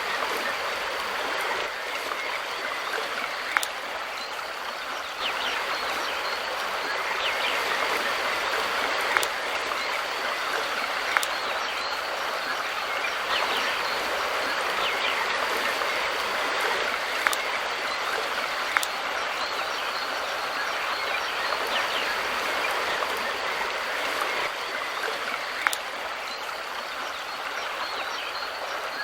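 Mountain river water running steadily, with faint bird chirps over it and a few sharp clicks from the water here and there.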